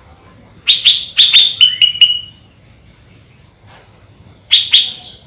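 Sooty-headed bulbul (kutilang) calling: a quick run of about eight sharp, falling chirps, then two more near the end.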